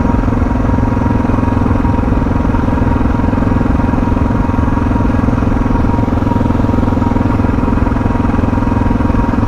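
Suzuki DR650's single-cylinder engine running steadily under way, the drone holding an even pitch with no revving or gear changes.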